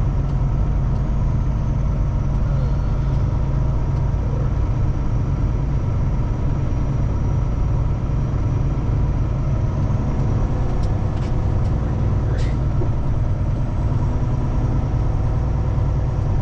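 Kenworth T680 semi truck's diesel engine running steadily, a low, even drone.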